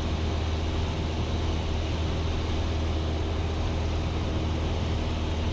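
Cessna 172's piston engine and propeller droning steadily in the cockpit in level flight, with a strong low hum and an even hiss above it.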